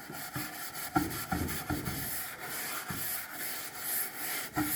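Wax being rubbed by hand into the wood of a drawer, a dry scrubbing sound in repeated short back-and-forth strokes as Howard's Feed-N-Wax is worked into the finish.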